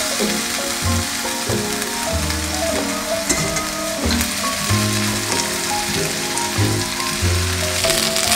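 Rice and green-onion kimchi frying in a hot pan: steady sizzling as cooked rice is tipped in and stirred with a spatula. Soft background music plays over it.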